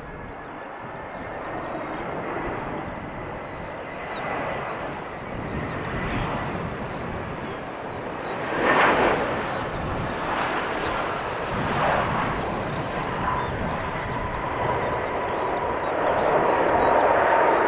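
Jet airliner engines, a broad rush that grows steadily louder, with a faint steady whine in the second half.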